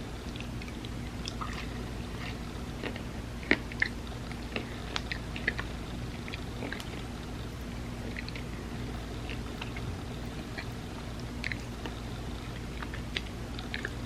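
Close-miked chewing and biting of ice cream sandwiches: soft wet mouth clicks and crackles, with two sharper snaps about three and a half seconds in, over a steady low hum.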